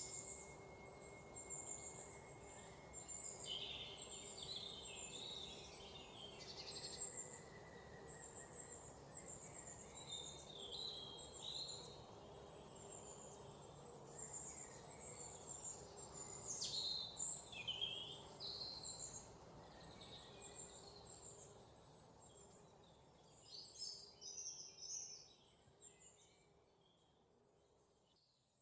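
Several songbirds chirping and singing, short high calls overlapping one after another over a steady low background hiss. The calls thin out and the whole sound fades down near the end.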